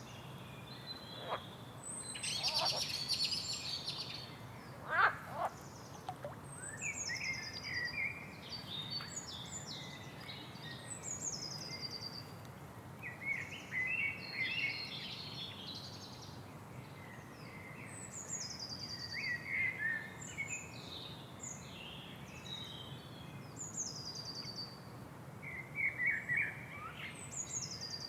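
Several songbirds singing and chirping in overlapping phrases, with one repeating a high, quick falling phrase every few seconds, over a faint steady background noise.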